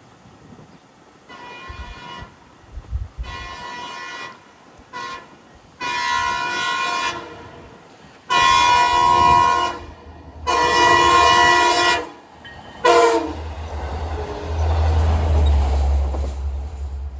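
Train horn of a diesel-hauled train sounding a series of long and short blasts, getting louder as the train approaches; after the last short blast, the low rumble of the train passing close.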